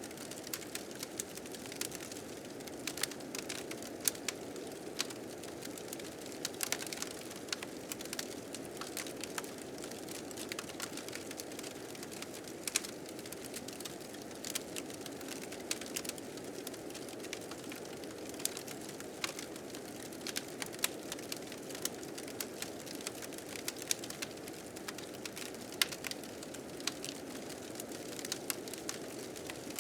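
Fire crackling with irregular sharp pops, over a steady, slowly swelling rush of blizzard wind.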